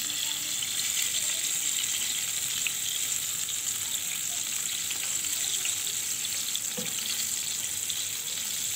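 Flour-coated chicken pieces frying in shallow oil in a nonstick pan: a steady, high sizzle.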